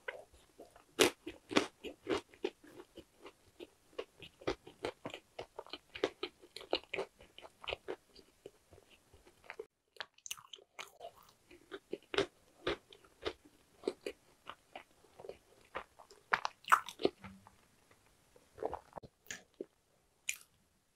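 Close-miked chewing of hodu-gwaja (Korean walnut cakes), each with a large whole walnut inside: a dense run of sharp crunches as the walnut and the cake break up between the teeth, pausing briefly about ten seconds in.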